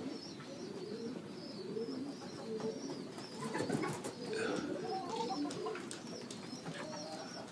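Domestic pigeons cooing, a low continuous warbling, with faint higher chirps of other birds over it.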